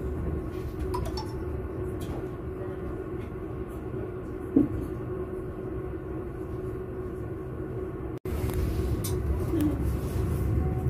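Train wheels running on rails: a steady low rumble with a steady hum and a few faint clicks and squeaks. The sound cuts out for an instant about eight seconds in and comes back a little louder.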